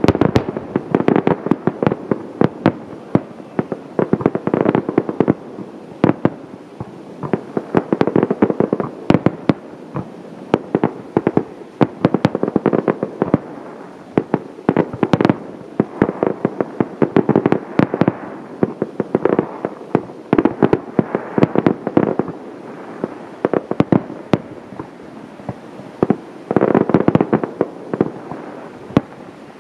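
Aerial fireworks shells bursting in a dense, irregular barrage of bangs and crackles, each echoing, with busier clusters around the middle and near the end.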